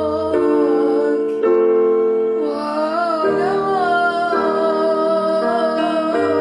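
A female voice singing a slow, wavering melody over sustained piano or keyboard chords that change every second or so.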